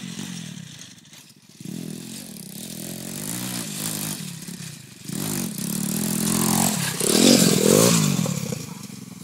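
Lifan 125 pit bike's single-cylinder four-stroke engine revving up and down under varying throttle as it is ridden. It drops off briefly about a second in and again near five seconds, and is loudest with a rise-and-fall of revs around seven to eight seconds in.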